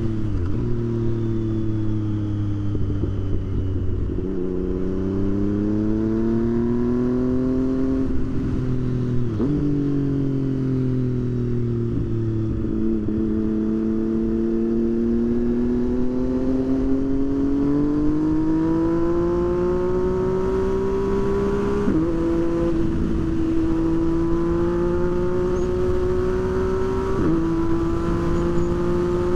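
Motorcycle engine under way, its note climbing steadily and then jumping abruptly to a new pitch at each of about six gear changes.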